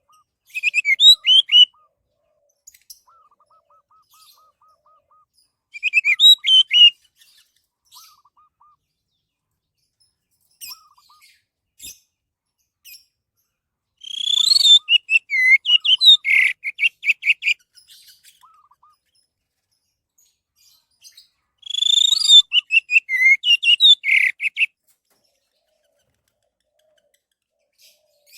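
Orange-headed thrush singing: four bursts of loud, rapidly varied whistled song phrases with quiet pauses between them. The last two bursts are longer, about three seconds each.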